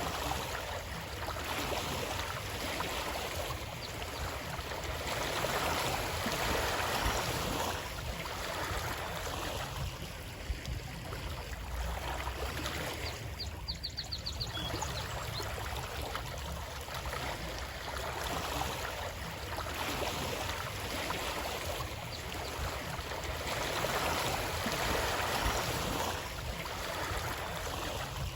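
Flowing stream water, a steady rushing wash that swells and eases every few seconds over a low rumble. A brief rapid run of high ticks sounds a little under halfway through.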